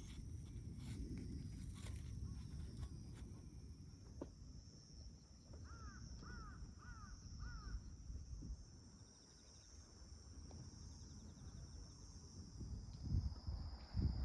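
A crow cawing four times in quick succession, short evenly spaced calls, over a steady faint high hiss.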